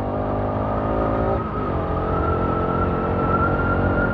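Bajaj Pulsar RS200 motorcycle's single-cylinder engine running as the bike rides along, its pitch dipping briefly and recovering about a second and a half in. A steady high whine sits over it, slowly rising in pitch.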